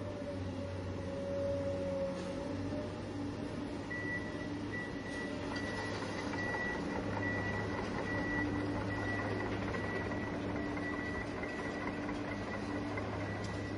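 Remote-control toy excavator's small electric gear motors whirring steadily, with a thin high whine joining about four seconds in.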